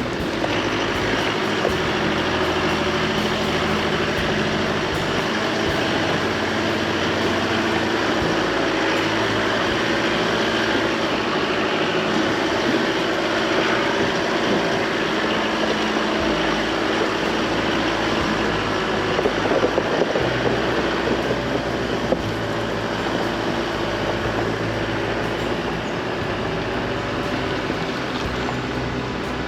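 Chevrolet Colorado ZR2 Bison pickup driving along a forest road: steady tyre and road noise with the engine's hum underneath and occasional small knocks.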